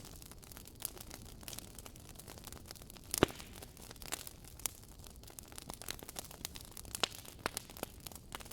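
Wood fire crackling: irregular sharp pops and snaps over a low hiss, with one much louder pop about three seconds in.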